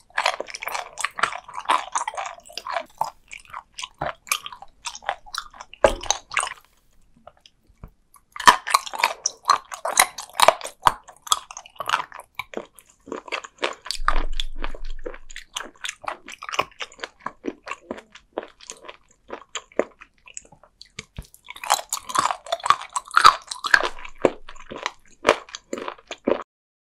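Close-miked chewing of firm, crunchy raw sea cucumber. It comes in dense spells of crunching with sparser chews between, and stops just before the end.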